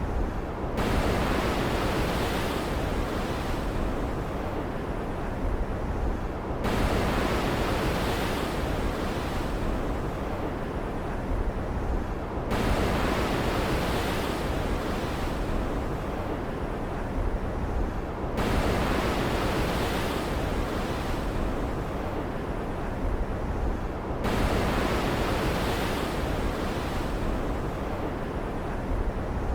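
Stormy ocean ambience: waves surging and breaking about every six seconds over a steady low rumble and hiss.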